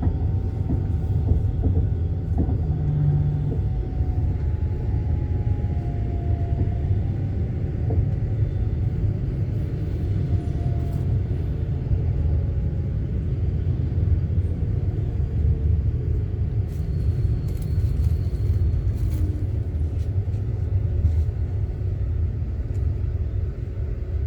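Steady low rumble of a vehicle heard from inside, with faint falling whining tones in the first several seconds.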